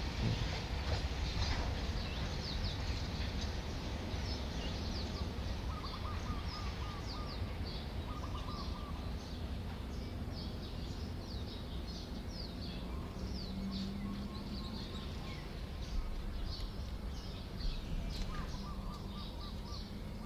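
Birds chirping with many short, high calls and a few brief rapid trills, over a steady low background rumble.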